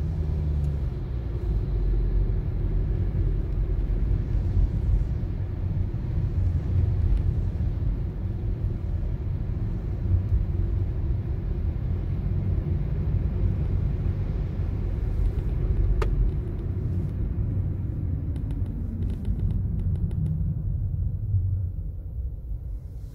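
Low, steady road and engine rumble of a Toyota Corolla driving, heard from inside the cabin, dying down over the last few seconds. A single sharp click about sixteen seconds in.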